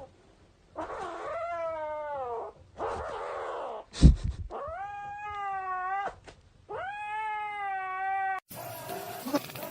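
A cat yowling: three long drawn-out calls, the first sliding down in pitch, the other two held steadier. A single sharp thump comes about four seconds in, between the first and second calls.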